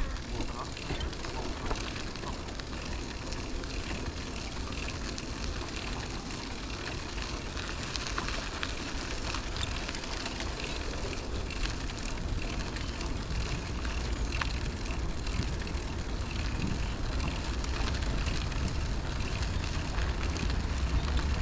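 A bicycle rolling along a park path, with wind buffeting the microphone and tyre noise, plus scattered small clicks and crackles. The low wind rumble grows louder near the end.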